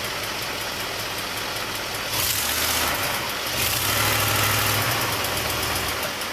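Monster truck's Chevrolet big-block V8 running at idle, then opening up twice, about two seconds in and again near four seconds, before settling back to idle.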